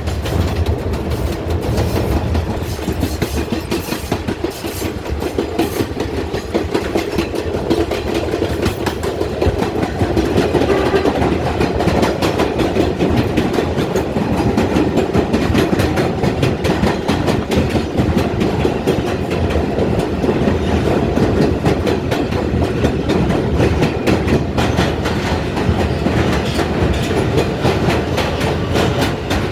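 R142A subway train running at speed on an elevated express track, wheels clacking over rail joints in a steady rumble. It gets somewhat louder about a third of the way in.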